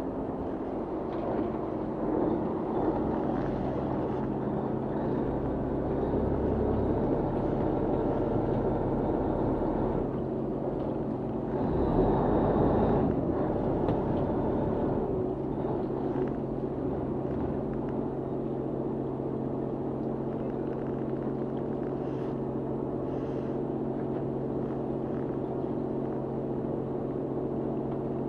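Fishing boat's engine running steadily with a low hum, briefly louder near the middle.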